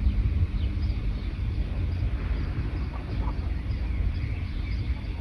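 Songbirds chirping faintly in short, scattered calls over a louder steady low rumble.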